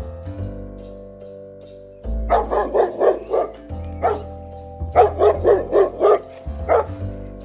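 A dog barking in quick runs of short barks, starting about two seconds in, with single barks between the runs, over background music.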